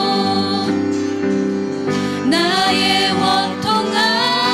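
A female-led worship band playing a slow Korean praise song, with the singer holding the end of one line and starting the next over sustained accompaniment and guitar.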